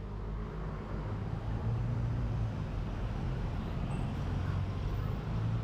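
Street traffic: a motor vehicle engine running close by, a steady low hum over the wash of road noise.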